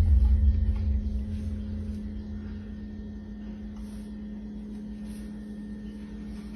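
A deep low rumble that fades away over the first two seconds, leaving a steady low hum.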